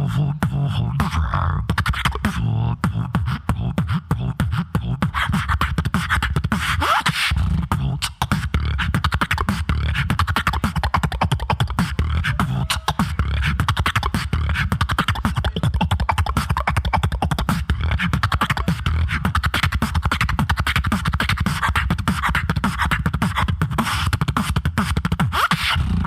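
Solo beatboxer performing a vocal percussion routine: fast, dense clicks and snares over a heavy, sustained bass, with one brief drop about eight seconds in.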